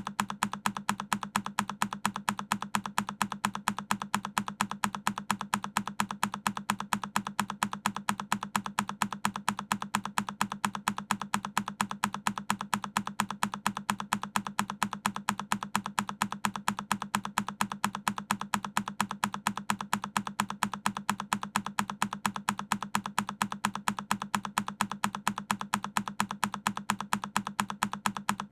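A single key press on a Keychron K10 mechanical keyboard, repeated in a loop: sharp, identical clicks evenly spaced several times a second.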